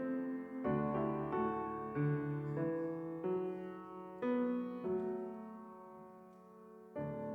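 Piano playing slow, quiet chords, each struck and left to ring out and fade; a longer chord dies away before a new one is struck near the end.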